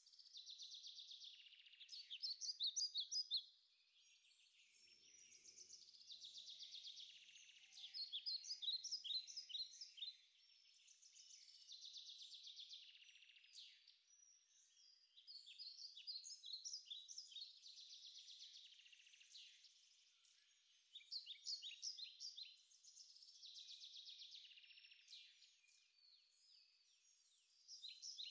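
Faint, high-pitched chirping from wild creatures in phrases that repeat every few seconds. Each phrase is a soft buzz that builds into a run of sharper, louder chirps.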